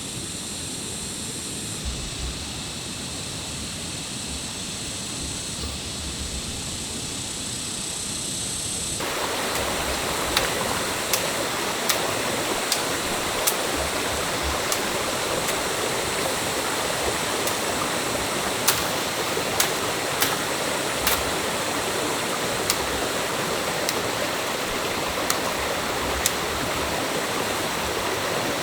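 Steady rushing of stream water. About nine seconds in it becomes louder and fuller, and short sharp knocks or clicks come through over it every second or so.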